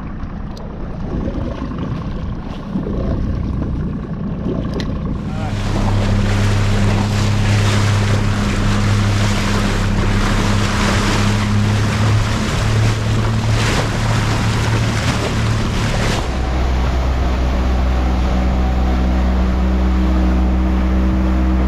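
Motorboat engine running with water rushing past the hull and wind noise. About five seconds in it gets louder as the boat runs under way, and near the end the sound changes abruptly to a lower, steady engine hum.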